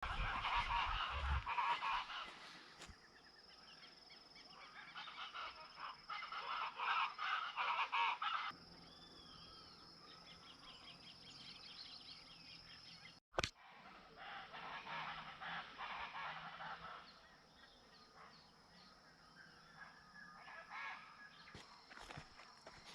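A large mixed flock of wading and water birds calling together, many voices overlapping; loudest in the first two seconds and again from about five to eight seconds, with a brief break about thirteen seconds in, then softer calling.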